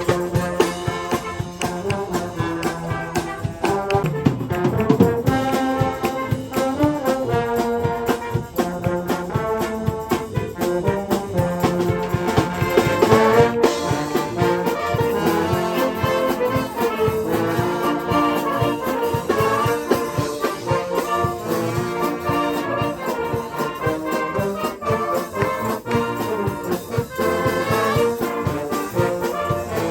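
A live brass band plays a tune, with trumpets and trombones carrying the melody over a steady beat.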